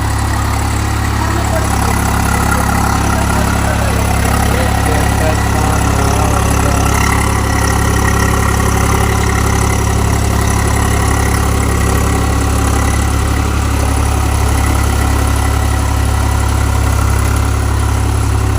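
Tractor engine idling steadily, a constant low rumble.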